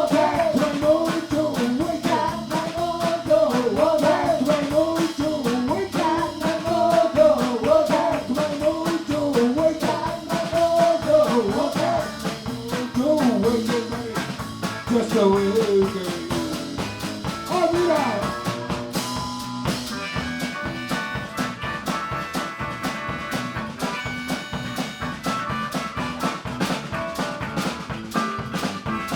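Live blues band playing, with a bending lead melody over the band for the first half or so. After that the music turns to steadier held chords.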